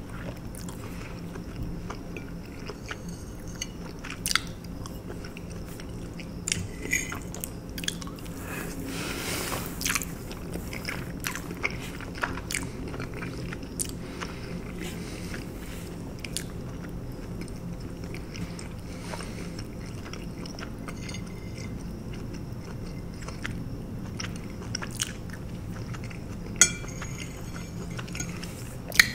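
Close-miked wet chewing and lip smacking of a mouthful of fettuccine alfredo, with many short sharp clicks, a few of them louder.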